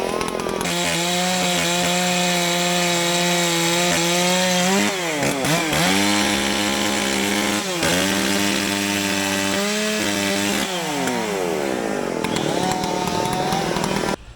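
Chainsaw running at high throttle while cutting through a big hardwood trunk, its engine note steady under load, dipping briefly twice as the chain bites, then dropping in pitch and revving back up before it cuts off suddenly near the end.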